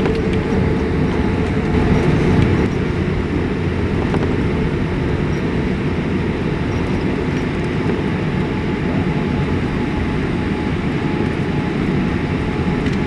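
Steady low rumble inside the cabin of a Boeing 787-8 rolling along the runway just after landing, with engine and wheel noise together, a little louder in the first two or three seconds and then even.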